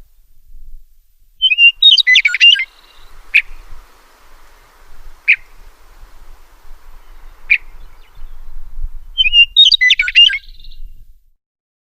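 A songbird sings the same short twittering phrase twice, about seven seconds apart, with three single sharp chip notes between, over a faint low rumble. The sound cuts off abruptly near the end.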